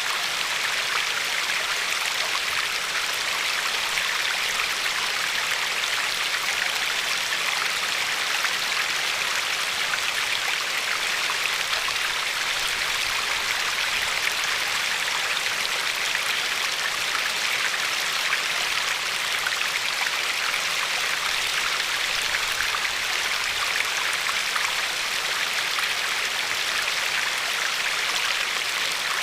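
A river of glacial meltwater running steadily over a pebbly shore: an even, unbroken rush of flowing water with fine splashes through it.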